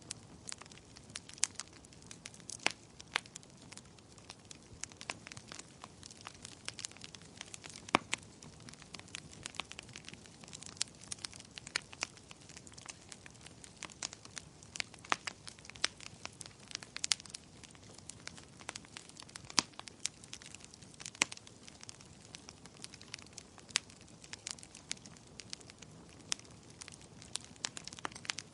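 Fireplace fire crackling: irregular sharp pops and snaps, often several a second, over a soft steady hiss, with one louder snap about eight seconds in.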